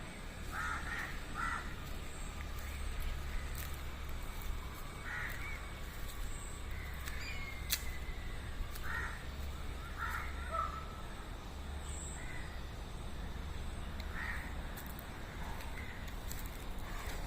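Short, harsh bird calls, a dozen or so spaced irregularly, over a steady low rumble.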